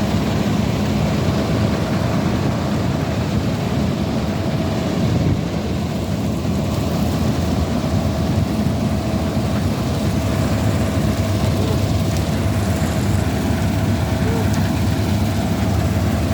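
Combine harvester running steadily while harvesting wheat: a constant low engine drone with a steady hum of machinery over it.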